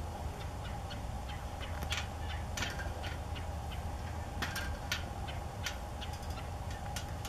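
Short, high bird chirps at irregular intervals, with a steady low rumble underneath.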